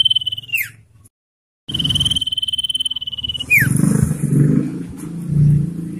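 Common iora singing its long drawn-out whistle: one high, steady note held for a second or two and ending in a quick falling slur, given twice, with a short silent break between. A low rumbling noise follows the second whistle.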